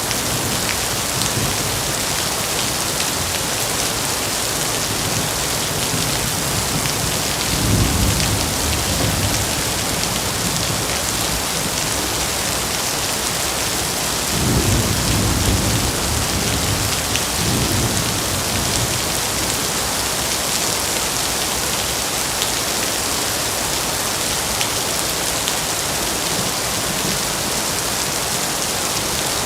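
Steady heavy rain, with low thunder rumbling about 8 seconds in and again in two rolls a little past the middle.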